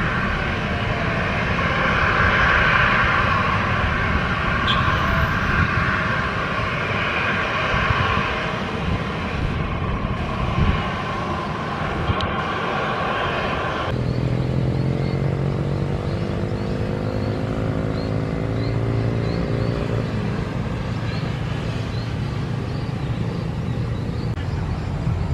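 Airliner jet engine noise at an airport, a steady loud whine and rush. About 14 seconds in it changes abruptly to a lower engine drone whose tones slowly shift in pitch.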